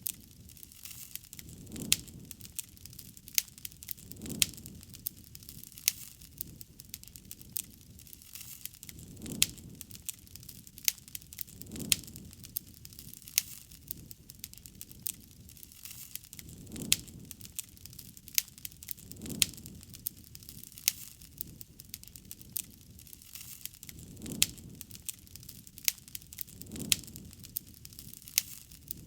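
Wood campfire crackling, with many sharp pops and snaps and a soft low swell every couple of seconds.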